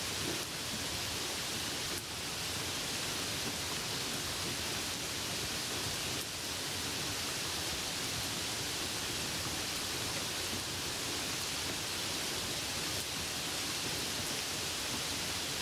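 Steady rain falling, an even hiss with no distinct drops, voices or thunder standing out.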